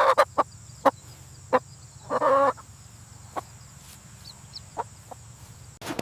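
Chicken clucking: a few short, sharp clucks and one longer cluck about two seconds in.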